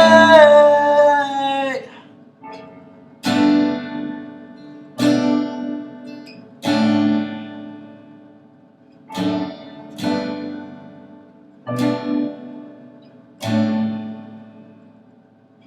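Acoustic guitar played in single strummed chords, each left to ring and fade, about one every one to two seconds. Over the first two seconds a sung note is held with a waver in pitch and trails off.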